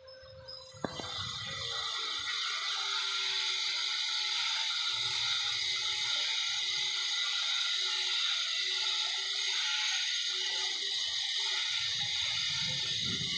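Young canary twittering in a fast, continuous, high-pitched run: the early practice song of a bird just starting to sing. A sharp click comes about a second in, just before the song.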